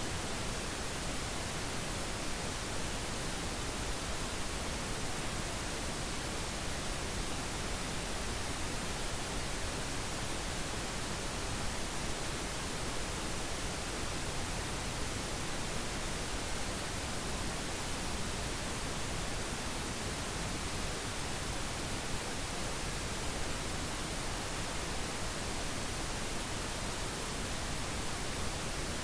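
Synthetic pink noise: a steady, even hiss across all pitches, unchanging throughout.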